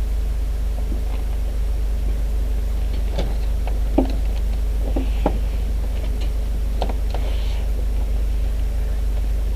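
Steady low engine drone from a light aircraft, with a few scattered clicks and knocks over it.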